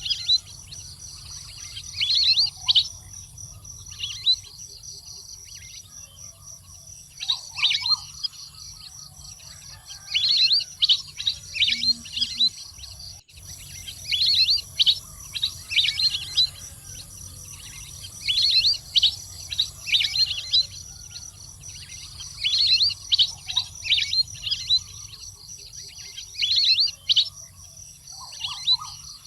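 Wild ducks calling: clusters of high-pitched chirping whistles that come in bursts every two to four seconds, over a steady high insect drone.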